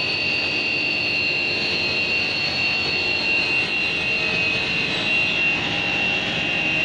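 Machinery running steadily: a constant high whine over an even hiss.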